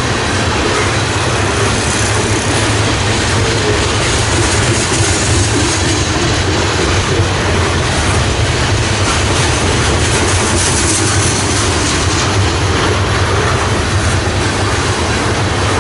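Freight train cars rolling past at speed: a steady rumble and clatter of steel wheels on the rails.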